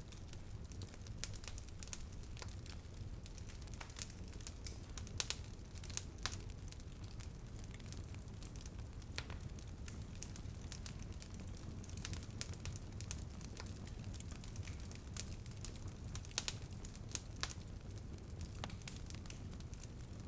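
Wood fire crackling in a fireplace, with irregular sharp pops and snaps, a few louder ones, over a steady low rumble.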